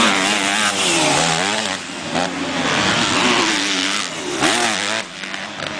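Motocross bikes racing, several engines revving up and down in pitch over one another as riders throttle and shift.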